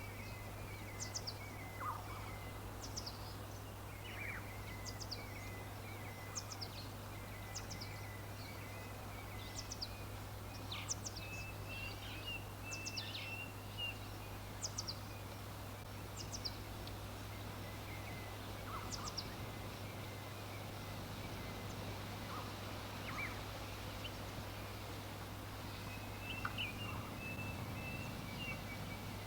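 Small birds chirping: short high chirps repeating roughly once a second, with bursts of twittering calls now and then, over a steady low hum and background hiss.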